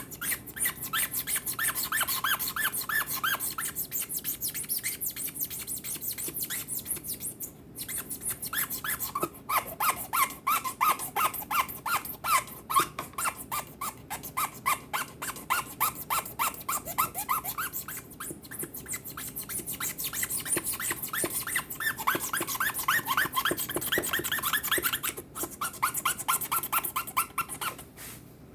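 A kitchen strainer being worked to make a fast run of short squeaky chirps, several a second, in long runs broken by short pauses about 8, 18 and 25 seconds in.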